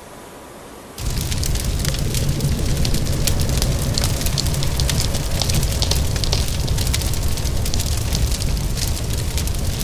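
Fireplace fire crackling, with dense sharp pops and snaps over a low rumble. It comes in suddenly about a second in, after a quieter stretch.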